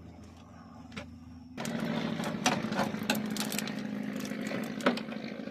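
A machine's motor running with a steady hum. About a second and a half in it turns much louder, with clicking and clattering over the running tone, then cuts off sharply near the end.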